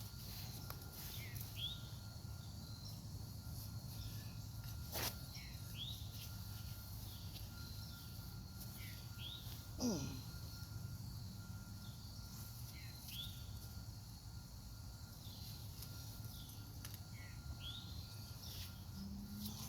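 Outdoor ambience: a bird giving a short chirp over and over, about once every second or two, over a steady high insect drone. A sharp click about five seconds in and a brief falling sound about ten seconds in.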